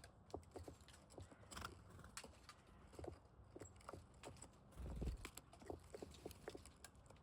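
Faint, irregular clicks and taps of small birds pecking and cracking seeds at a feeder, with a low thud about five seconds in.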